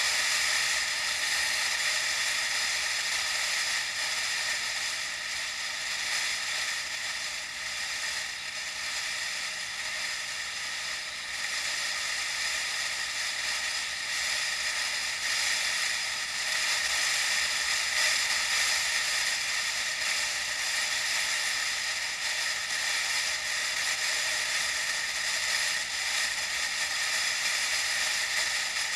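Steady high hiss of wind and road noise from a moving bike, heard through an action camera, with slow swells in level and no engine note.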